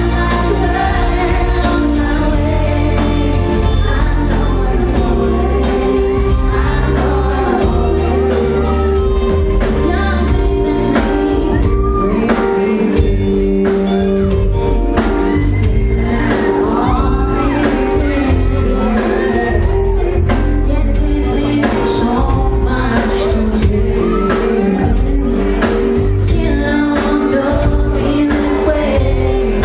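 Live concert performance of a slow pop song: a woman singing over held keyboard chords, heavy bass and a steady drum beat, in a large hall.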